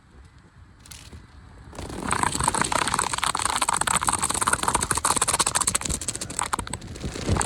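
Automatic car wash working over the car, heard from inside it: a loud, rapid spattering rush starts about two seconds in and keeps on.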